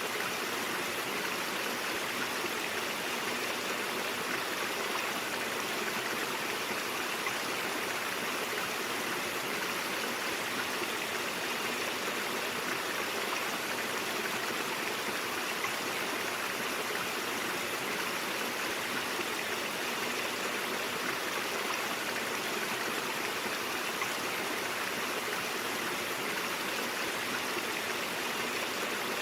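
Stream water flowing and burbling steadily over rocks.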